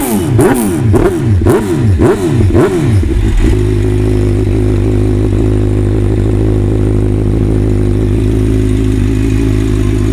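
Suzuki GSX-R750 inline-four sport bike with an aftermarket slip-on exhaust, revved in quick throttle blips about two a second, then settling to a steady idle about three and a half seconds in.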